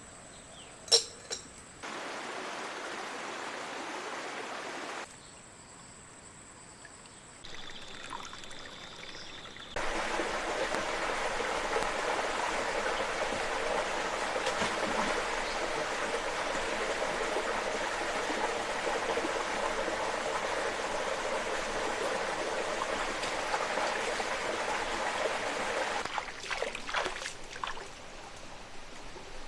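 Steady water noise, trickling and running, in a few cut-together stretches, the longest and loudest lasting about sixteen seconds. A sharp click comes about a second in.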